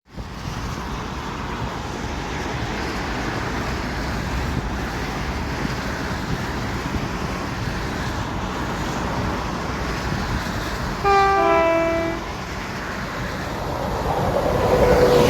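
A train running past with a steady rumble. About eleven seconds in it sounds a two-tone horn, a higher note then a lower one, lasting about a second.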